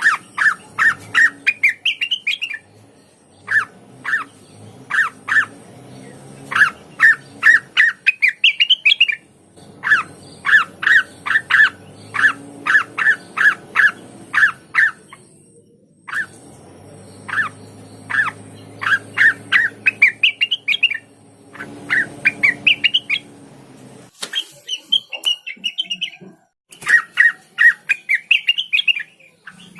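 Cucak wilis (rengganis) singing in repeated phrases of short, rapid notes, many phrases ending in a quick rising run, with brief pauses between them.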